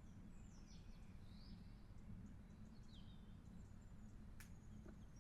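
Near silence: faint bird chirps and short twittering calls over a low steady hum, with a single sharp click a little past four seconds in.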